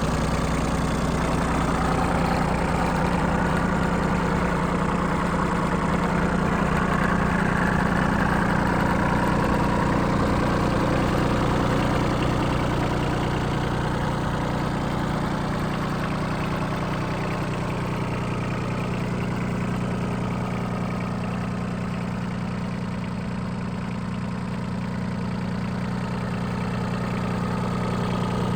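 Yanmar AF16 compact tractor's 16 hp diesel engine running steadily, its mid-range noise easing slightly about halfway through.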